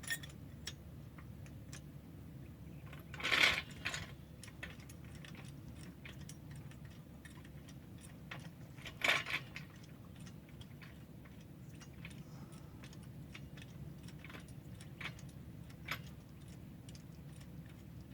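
Scattered light metallic clicks and clinks of hand tools and brake parts being worked on a pickup's rear brakes, with two louder short rasps, one about three seconds in and one about nine seconds in, over a low steady hum.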